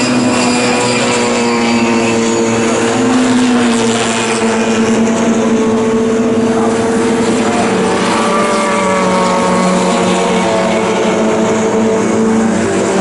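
Several historic front-engined Formula Junior racing cars' engines running hard at once, a steady loud engine drone whose pitches shift slowly up and down as the cars move through the corners.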